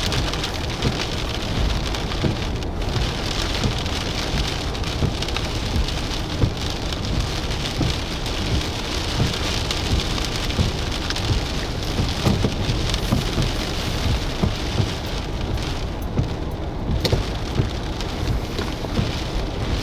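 Windstorm noise: a steady rushing hiss with irregular gusts rumbling on the microphone.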